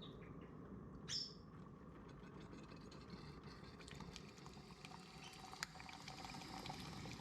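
A pet parrot gives a short, high chirp about a second in, over a low steady hum. Faint scattered ticks and crackles follow, with one sharper click a little past the midpoint.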